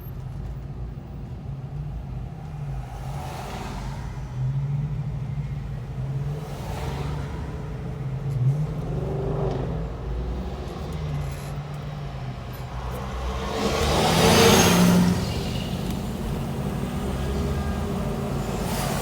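1959 Imperial's V8 engine and road noise while cruising at a steady speed, with several other vehicles swishing past, the loudest about fourteen seconds in.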